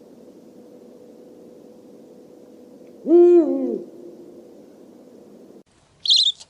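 An owl gives one hoot about three seconds in, a single pitched call lasting under a second that drops at its end, over a steady low background hiss. Near the end the background cuts out and a short high bird chirp follows.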